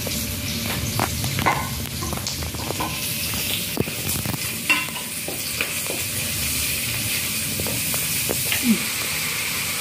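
Gizzard and liver sizzling in a hot metal wok while a wooden spatula stirs them, with scattered clicks and knocks of the spatula against the pan.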